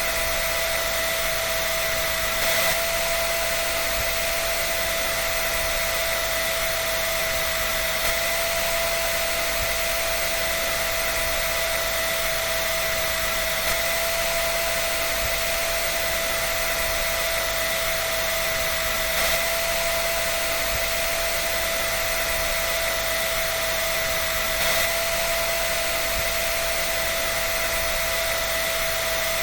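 Electric hair dryer running continuously: a steady airy rush with a constant motor whine, and faint soft bumps about every five and a half seconds.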